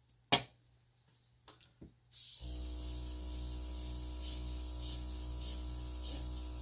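A sharp click, then about two seconds in an airbrush compressor starts: a steady low motor hum under the airbrush's hiss of air, which swells in a regular pulse a little under twice a second.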